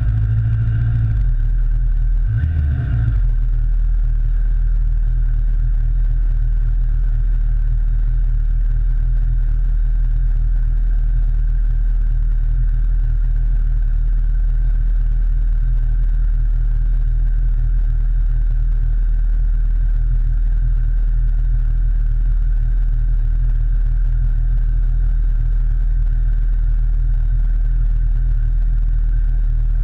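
Motorcycle engine idling steadily, after two brief throttle blips in the first three seconds.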